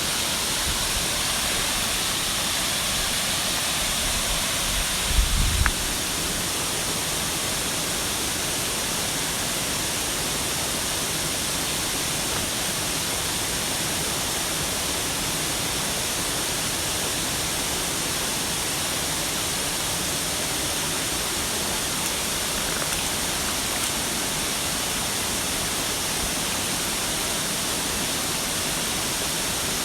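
Waterfall rushing: a steady, even roar of falling water. A brief low thump about five seconds in.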